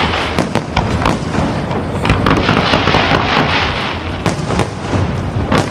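Fireworks going off in a dense barrage of crackling pops and bangs over a low rumble, with a few sharper cracks standing out near the end.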